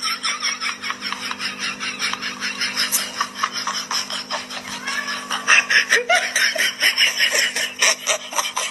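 A person laughing hard, a fast unbroken run of short ha-ha sounds, about five or six a second, over a faint steady hum.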